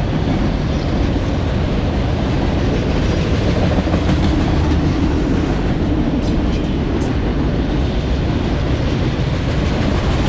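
Freight train of enclosed auto rack cars rolling past at slow speed, a steady rumble of steel wheels on the rails with some clickety-clack over the rail joints.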